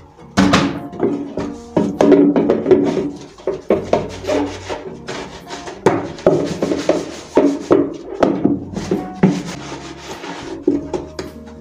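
Frequent knocks, clacks and rubbing of household containers being handled and set down, over soft background music.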